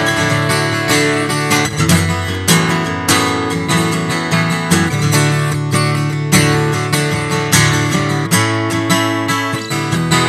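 Acoustic guitar strummed in a steady rhythm, playing chords of a worship song between sung lines.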